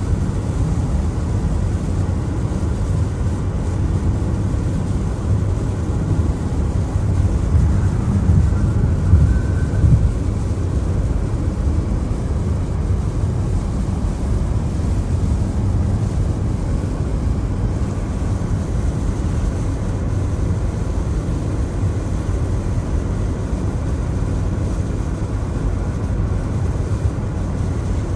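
Steady road noise of a car driving in the rain: a low rumble of engine and tyres on wet pavement, swelling briefly about nine seconds in.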